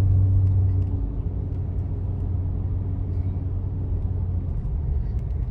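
Car driving along a road, heard from inside the cabin: a steady low rumble of engine and tyres, with a low hum that drops off about a second in.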